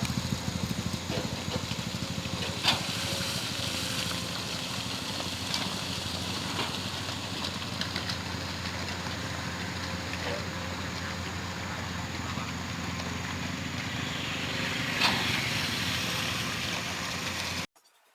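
Excavator's diesel engine running steadily, with a sharp knock a few seconds in and another near the end. The sound cuts off abruptly just before the end.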